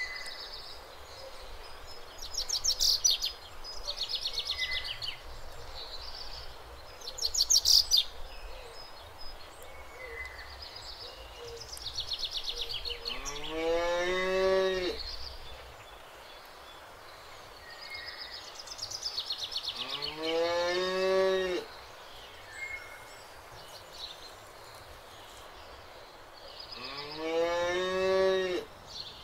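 A cow mooing three times, long calls about seven seconds apart, each rising and then falling in pitch. Birds sing rapid high trills throughout, the loudest twice in the first eight seconds.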